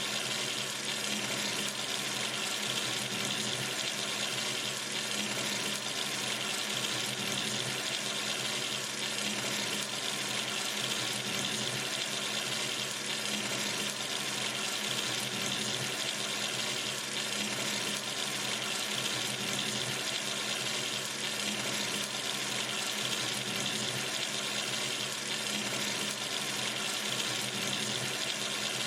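Water running steadily from a sink tap, an even hiss-like splashing with no change in flow.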